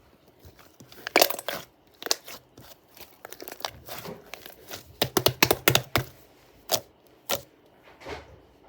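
White fluffy shaving-foam slime being squeezed and pressed, giving clusters of sticky crackles and pops. The loudest bursts come about a second in and again around five to six seconds.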